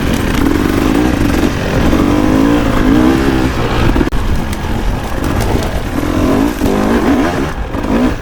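Dirt bike engine revving up and down as it is ridden over trail, its pitch rising and falling again and again, with a brief drop in level about four seconds in.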